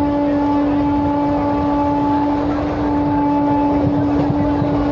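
A train with a steady, unbroken droning tone held at one pitch over a low rumble.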